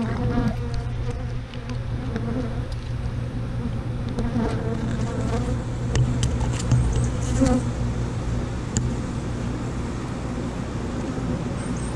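Steady buzzing hum of a honey bee colony stirred up around an opened Langstroth hive during a frame inspection. A few faint clicks are scattered through it.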